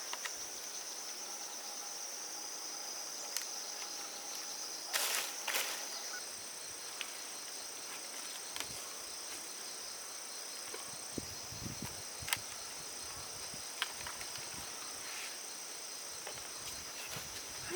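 Insects singing steadily in a high, even tone, with a few sharp clicks and a short rustle about five seconds in.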